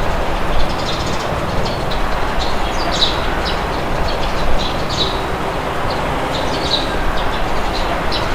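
Steady rushing wind, with small birds chirping in short, frequent high calls over it.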